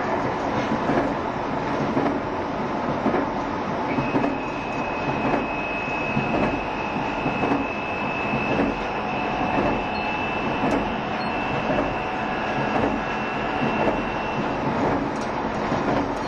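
JR Shikoku 7200 series electric train running: a steady rumble with the wheels clicking over rail joints. A high, steady whine comes in about four seconds in and stops about ten seconds later.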